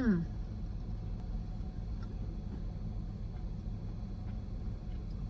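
Steady low rumble of a car's engine idling, heard from inside the cabin, with one short click at the very end.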